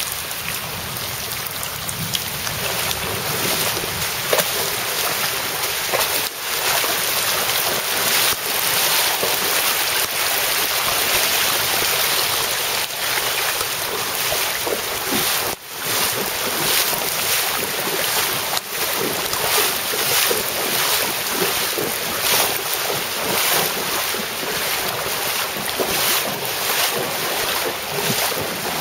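Steady hiss of heavy rain and running floodwater, with wind buffeting the microphone.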